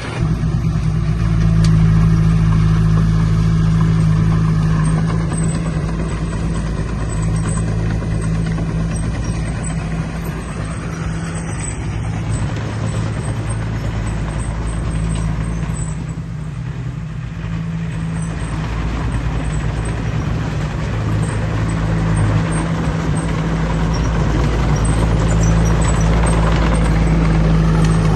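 Heavy diesel earthmoving machinery running, a steady low engine drone that eases for a few seconds around the middle and builds again toward the end.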